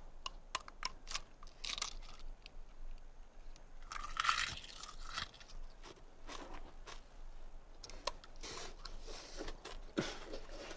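A raw bird's egg, taken for a raven's egg, being cracked open and eaten: a run of sharp clicks from the shell early on, then louder bursts of crunching and chewing around the middle and near the end.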